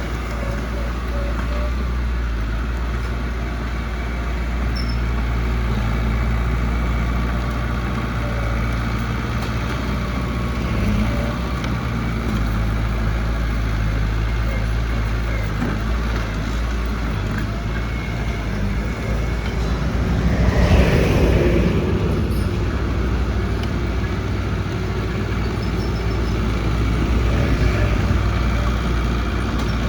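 Heavy construction machinery's diesel engine running steadily. About two-thirds through, a louder rush lasts about two seconds.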